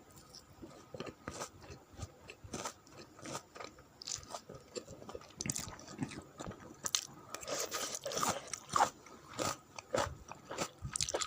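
Close-miked mouth sounds of a person chewing and biting spicy chicken noodles: a string of short, irregular wet clicks and smacks, busiest a little past halfway.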